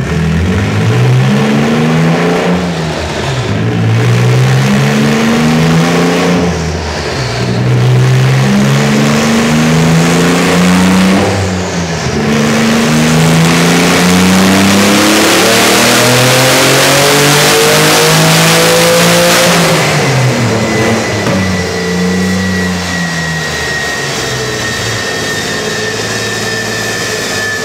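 Twin-turbo Nissan 350Z V6 at full throttle on a chassis dyno. Revs climb and drop several times in its first half, then rise in one long pull of about eight seconds, with loud turbo hiss growing as they climb. Near twenty seconds the throttle closes and the revs fall away, leaving a thin whine that slowly drops in pitch.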